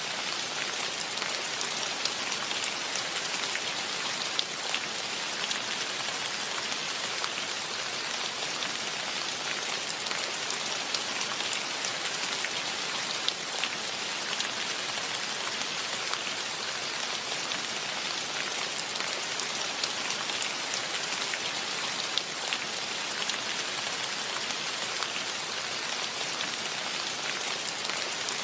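Steady rain falling on the surface around, an even hiss scattered with the ticks of individual drops.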